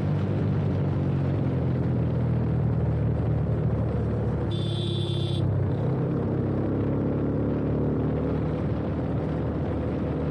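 2017 Yamaha FZ25's single-cylinder engine running steadily through an aftermarket full-system exhaust with an Akrapovič-replica slip-on, heard from the rider's seat. About halfway through, a high-pitched tone sounds for about a second.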